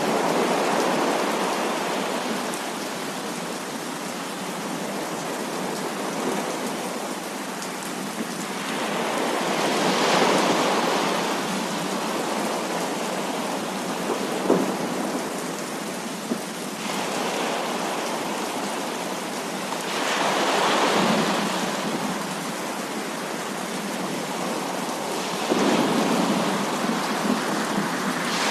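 Heavy rain falling steadily in a thunderstorm, swelling louder several times as thunder rolls through. There is one sharp tap about halfway through.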